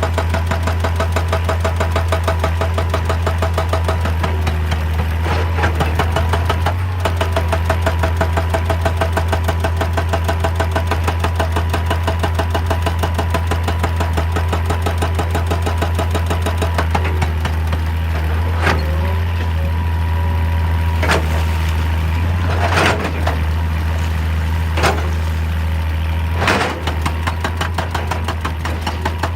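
Hitachi EX200 excavator's diesel engine running steadily with a deep, even hum. Several sharp knocks sound in the second half.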